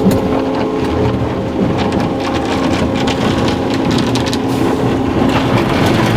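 Soft-touch brush of a D&S Odyssey in-bay car wash spinning and scrubbing against the car amid spraying water, heard from inside the car, with a steady machine hum under the rain-like noise.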